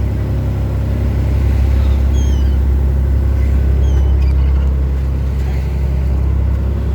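A fishing boat's engines running steadily, a loud low drone, with a few faint high chirps over it.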